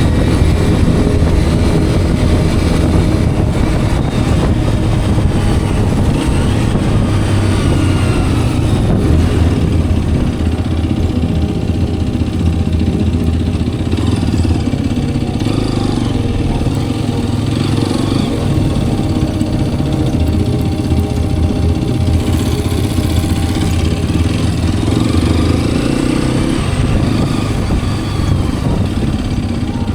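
Hero Xpulse 210's single-cylinder engine running while the motorcycle is ridden, its note rising and falling with the throttle.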